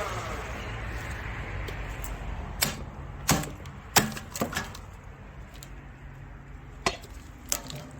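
A series of about seven sharp wooden knocks and cracks of split firewood against a faint low hum from the hydraulic log splitter.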